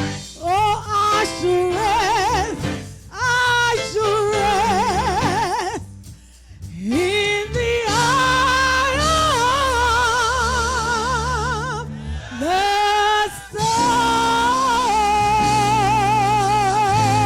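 Gospel song: a solo voice sings long, held notes with heavy vibrato, scooping up into them, over a steady sustained instrumental backing with bass. The voice breaks off briefly near the middle, then returns.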